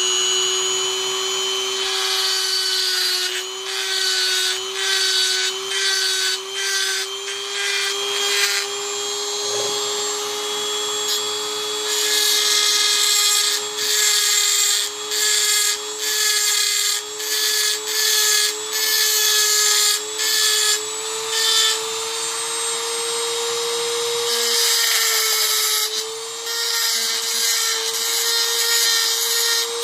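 A hand-held rotary tool with a cutting bit runs at a steady high whine, its pitch creeping slightly higher. It cuts into a Hot Wheels car's frame in many short grinding passes, with a couple of brief lulls where only the motor's whine is heard.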